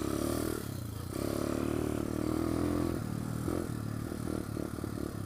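Pit bike engine running under throttle on a rocky trail. It opens up in a long pull from about one second in to three seconds, then gives several short throttle blips, with clattering over the rocks.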